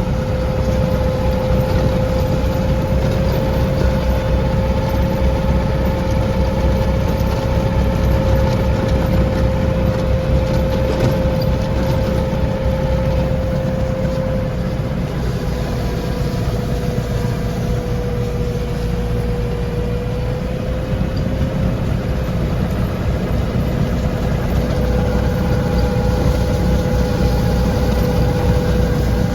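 Lovol tractor running steadily with a Snowline 3120 snowblower mounted, a continuous engine rumble carrying a steady whine. The whine sags a little in pitch past the middle, then comes back up.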